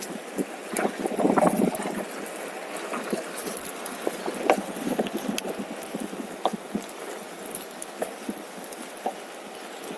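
Rolling noise with irregular clattering knocks, typical of a OneWheel electric board's tyre running over a rough trail surface.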